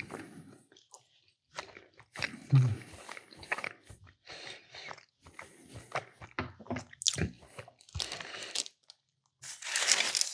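Close-miked eating: a person biting, crunching and chewing food in irregular bursts, with a single low thud about two and a half seconds in.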